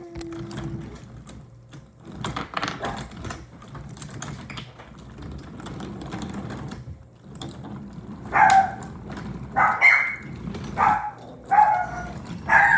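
Light clicking and rattling, then a dog barking about five times in short sharp barks, starting about two-thirds of the way in.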